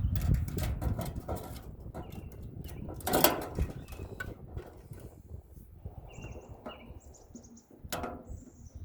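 Knocks and rattles of sheet metal and parts being handled while a furnace is stripped for scrap, with a louder clank about three seconds in and another near the end. Short bird chirps are heard between the clanks toward the end.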